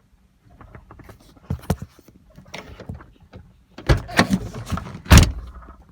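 A string of knocks, clunks and rattles against a car, with louder bangs about a second and a half in, around four seconds in, and a loudest single bang about five seconds in.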